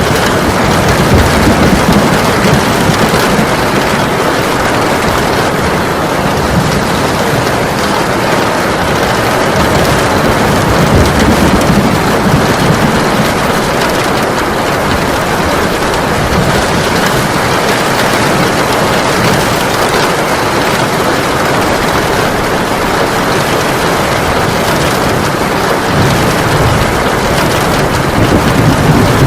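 Heavy rain pouring steadily, with low rumbles of thunder swelling near the start, around a third of the way in, and near the end.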